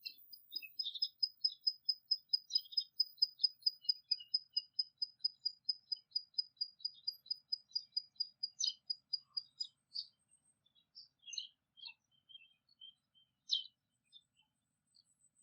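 Birdsong: one bird repeats a single high note about five times a second for some nine seconds, with other short chirps around it, then the song breaks off into scattered chirps.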